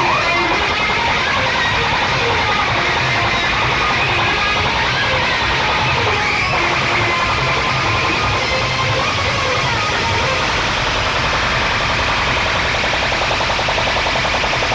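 Loud amplified music from large DJ sound systems, dense and steady, with a heavy pulsing bass beat.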